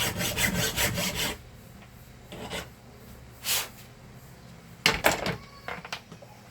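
Hand file rasping in quick strokes on a handheld vacuum motor's tight bearing seat, opening it up so the new bearing can press in evenly. A fast run of strokes comes first, then a few single strokes and light clicks.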